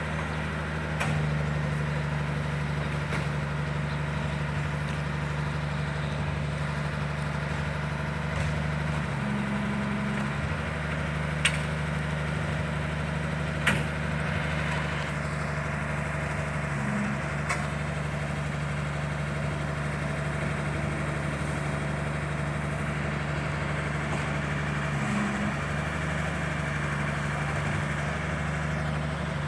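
A motor running steadily with a low hum, its pitch shifting briefly about a third of the way in, a little past halfway, and again near the end. A few sharp clicks come over it.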